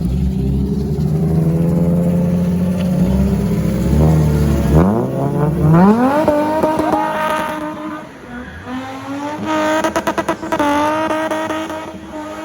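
Car engine running at low revs, then revving up sharply about five seconds in and held at high revs with a wavering pitch, dipping briefly and breaking into rapid stutters near ten seconds, as the car is driven hard in a drifting display.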